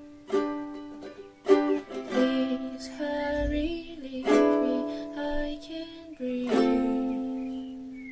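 Ukulele played as the song's outro: chords strummed every second or so and left to ring.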